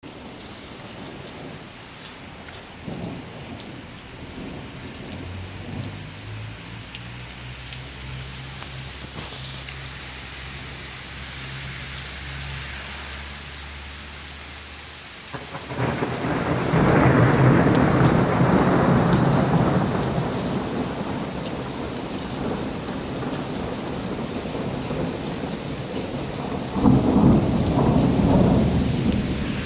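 Thunderstorm: steady rain falling, with a loud thunderclap about halfway through that rumbles on for several seconds, and a second clap near the end. A faint low steady hum sits under the rain in the first half.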